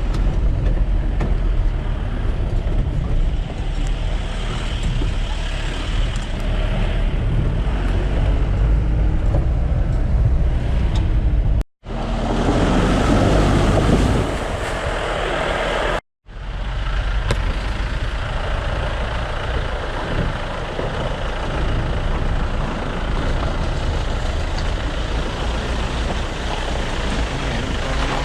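Off-road jeep driving along a rough dirt track, its engine and rumble running steadily. The sound drops out abruptly twice, briefly, a little before and a little after the halfway point.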